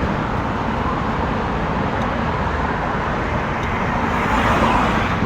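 Steady rushing wind and road noise from riding along a road, with traffic noise swelling about four seconds in.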